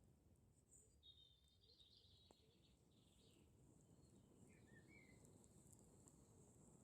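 Very quiet forest ambience: a few faint bird chirps in the first half and again about five seconds in, with an occasional faint click from the campfire.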